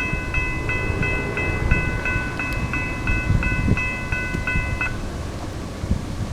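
A railroad bell rings about three strikes a second and stops about five seconds in, over the low rumble of a freight train.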